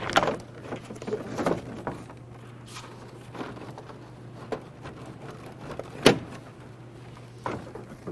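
Scattered plastic clicks and knocks from a car door trim panel being worked loose and lifted off the door, with one sharp snap about six seconds in, the loudest sound.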